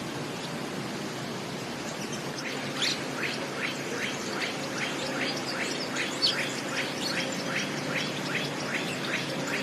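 A bird calling in a quick, even series of short downward-sweeping chirps, about two or three a second, starting about two and a half seconds in, over a steady background hiss.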